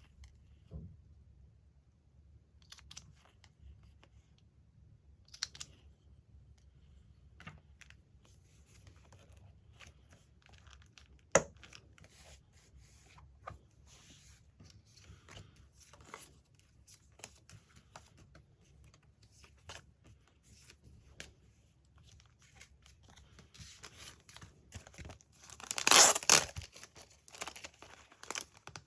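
Magazine paper being handled, with soft rustles and small ticks, a single sharp click about eleven seconds in, and a longer paper tear near the end.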